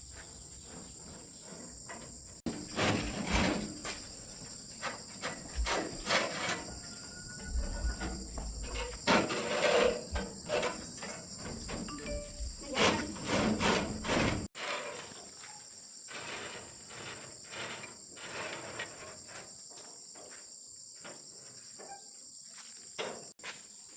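Steady high chirring of insects, with repeated knocks and clatter of metal work, densest in the first half.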